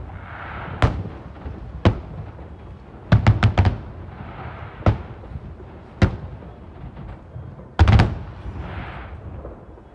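Fireworks shells bursting overhead: single loud bangs about a second apart, with quick clusters of three or four bangs about three seconds in and again near eight seconds, and a softer hiss between the bursts.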